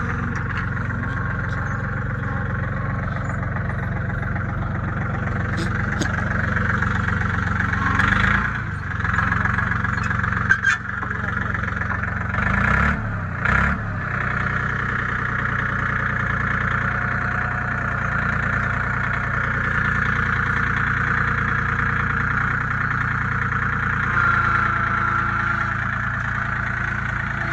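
An engine running steadily, with a few short louder moments in the middle.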